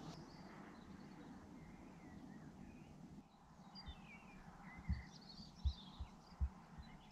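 Faint birdsong: small birds chirping in the surrounding trees and bushes, with a few short low thumps in the second half.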